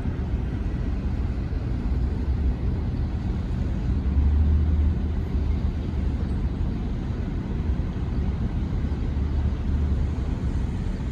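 A large ship's engines rumbling low and steady as the ship comes in, swelling briefly about four seconds in.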